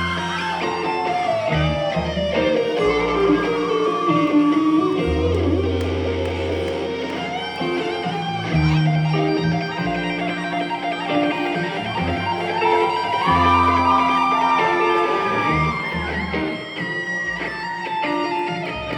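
Live band instrumental break: an electric guitar solo with bending, gliding notes over a bass line.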